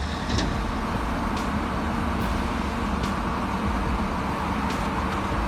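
Heavy vehicle engine running steadily, a continuous low rumble with a hiss of noise over it and a few faint clicks.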